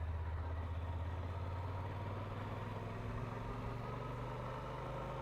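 Motorcycle engine running steadily at a low, even pace.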